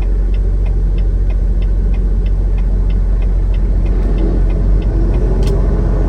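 Steady low rumble of a semi truck's engine and road noise heard from inside the cab while driving. A light, regular ticking runs about three times a second through the first part, and a single sharp click comes near the end.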